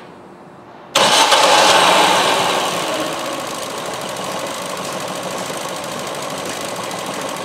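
Ford C-Max 1.6 petrol four-cylinder engine starting about a second in, flaring up briefly and then settling to a steady idle. It is misfiring, with cylinders 2 and 3 not firing.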